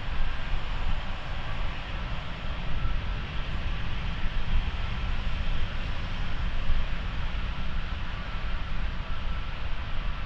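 British Airways Boeing 777-200ER's jet engines running, a steady rumble with a faint whine coming in a few seconds in.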